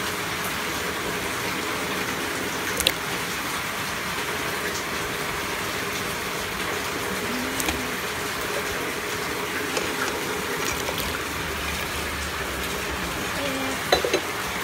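Steady hiss of rain falling, with a couple of sharp ticks about three seconds in and near the end.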